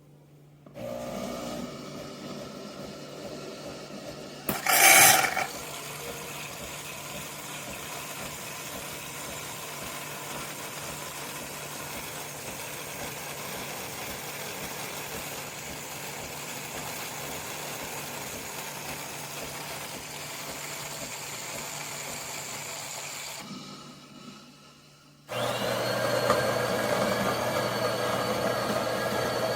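Water running steadily from a tap into the espresso machine's water tank, with one loud knock about five seconds in. After a short drop near the end, the De'Longhi Dinamica Plus starts up with a rising whine and runs with a steady motor hum.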